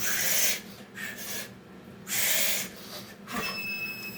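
A man breathing hard from exertion during Navy SEAL burpees: two loud, rough exhalations about two seconds apart, with fainter breaths between.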